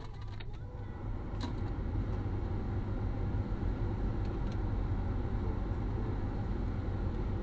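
Car engine idling with a steady low rumble, picked up inside the cabin by a windshield dash cam's microphone, with a few light clicks.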